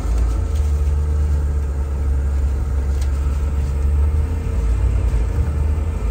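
Range Rover's swapped-in LS3 6.2-litre V8 engine running with a steady low rumble.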